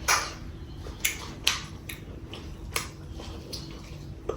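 Eating sounds: chewing chicken curry with rice, with several sharp mouth clicks and smacks, the strongest right at the start and about a second and a half in.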